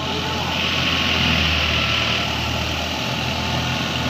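Heavy farm machine engine running steadily: a low drone with an even hiss above it.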